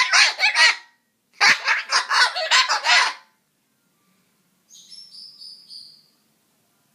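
Cockatoo grumbling in loud, pulsing calls: a short one ending about a second in, then a longer one lasting nearly two seconds, followed by a few faint, higher chirps.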